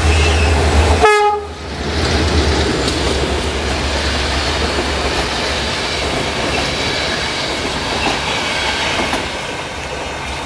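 GM diesel locomotive passing close on the adjacent track, its engine drone ending suddenly about a second in with a brief horn note. Then the passenger coaches roll past with a steady rumble and clickety-clack of wheels over the rail joints, easing off near the end.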